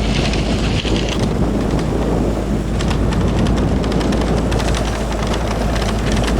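Steady rumble of a car driving, with engine and road noise mixed with wind.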